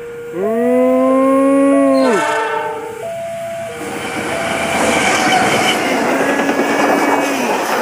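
A level-crossing alarm beeps in two alternating notes while a passing train sounds its horn for about two seconds, the horn's pitch dropping sharply as the train goes by. Then the rumble and wheel clatter of the train passing at speed build up, with a second, fainter horn note near the end.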